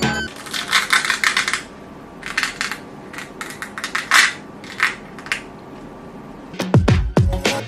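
Small hard objects clicking and clattering in several quick bursts, then music with a falling bass comes in near the end.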